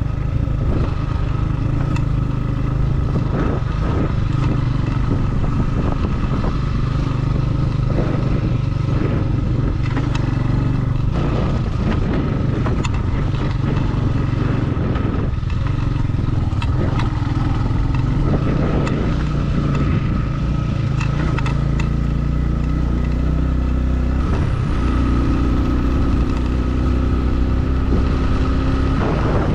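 Motorcycle engine running at a steady pace on a dirt road, with frequent short rattles and knocks from the rough surface. The engine note shifts about three-quarters of the way through.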